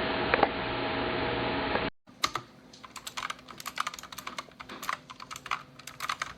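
A steady hiss with a faint hum runs until it cuts off abruptly about two seconds in. Then comes fast typing on an RK Royal Kludge S108 mechanical keyboard with blue switches: sharp, irregular key clicks, several a second.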